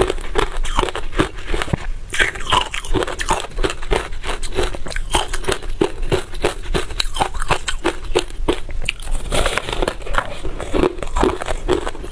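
Freezer frost being bitten and chewed: a dense, continuous run of crisp crunches, several a second.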